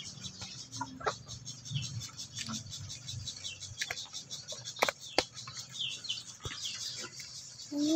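African lovebird giving a few short, soft chirps, with several sharp clicks in between.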